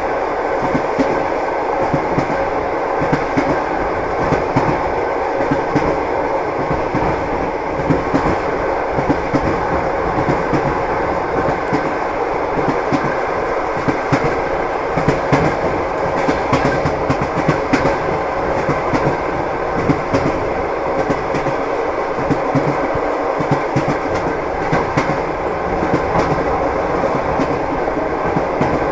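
A moving train: wheels clacking over the rail joints over a steady rumble, with a faint steady hum underneath.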